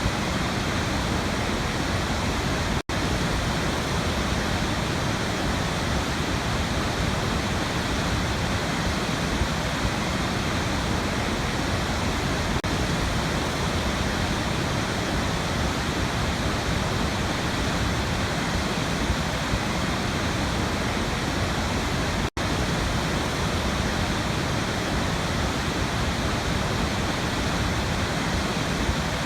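Waterfall, a steady rush of falling water. The sound cuts out for an instant twice, once near the start and once about two-thirds of the way through.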